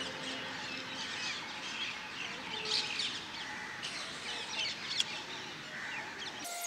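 Birds chirping and twittering over a steady outdoor background hiss, with a few faint clicks. The sound changes abruptly just before the end.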